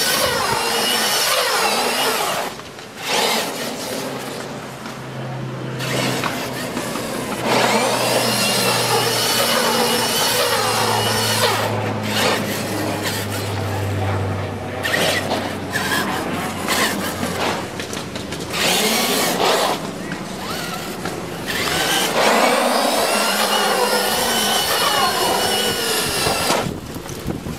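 Radio-controlled car's motor whining as it is driven, the pitch rising and falling with the throttle, in several long runs broken by brief let-offs.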